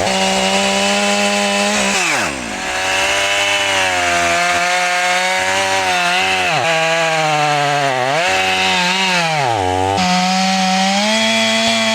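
Two-stroke chainsaw running at high revs while cutting through a pine log; its pitch sags briefly several times under load, and it falls back in pitch about two seconds in and again right at the end.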